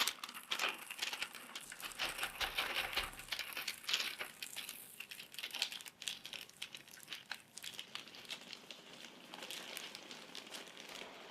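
Plastic ration packaging crinkling and rustling as packets are handled, with scattered light clicks and taps.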